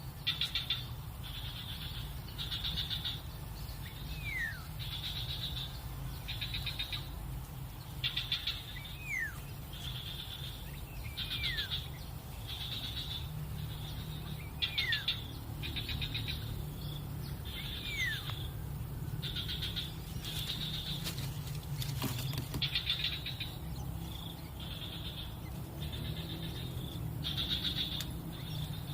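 Repeated short buzzy chirps, about one a second, with a thin falling whistle every two to three seconds, over a steady low hum.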